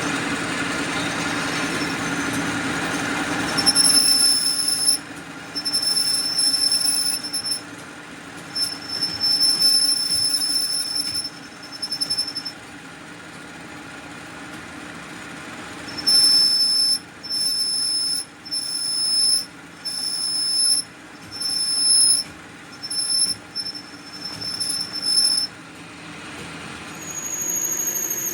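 A machine tool cutting a steel shaft: a steady machine hum, then a thin high-pitched squeal from the cut that starts and stops in repeated bursts of one to two seconds. A slightly higher squeal comes near the end.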